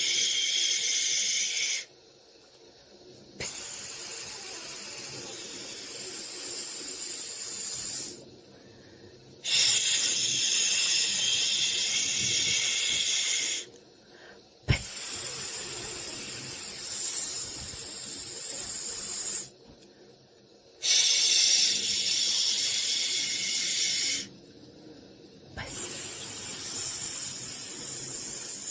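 Soothing white-noise hiss in long stretches of about four to five seconds, each stopping for about a second before it starts again, with a single click midway.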